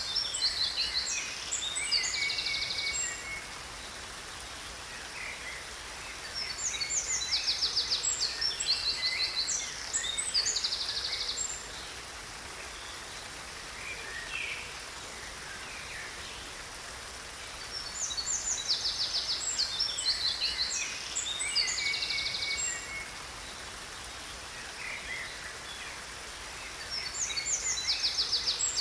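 Songbirds singing in bouts of rapid high chirps and trills, with the same burst of song returning about every eleven seconds. Beneath them runs the steady hiss of a waterfall.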